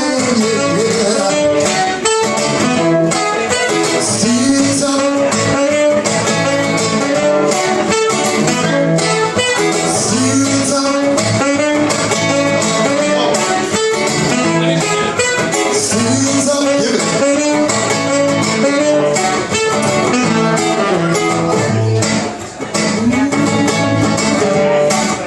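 A live band plays an instrumental reggae passage with strummed guitars over a steady beat.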